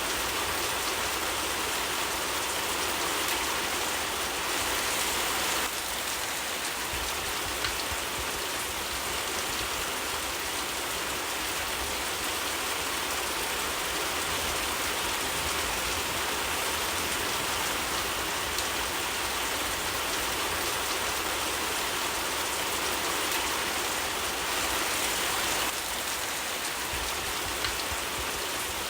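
Steady rain falling in an even hiss, with two short sharp pops, one about eight seconds in and one near the end.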